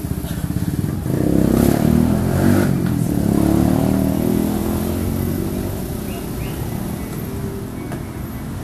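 Kawasaki Ninja R two-stroke engine running through an aftermarket Cream-Pie exhaust, revved up about a second in, then dropping back toward idle.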